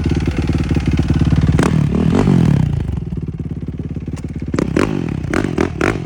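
Dirt bike engine running, revving up and dropping back about two seconds in, followed by several sharp clattering knocks near the end.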